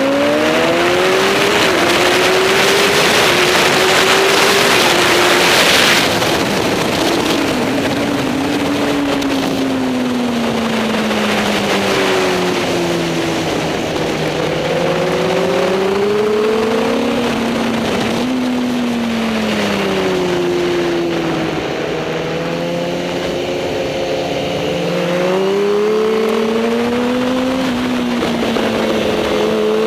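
Superbike engine at racing speed, its pitch rising and falling repeatedly as it accelerates and backs off through the corners. A loud rushing hiss rides over it for the first six seconds and then stops suddenly.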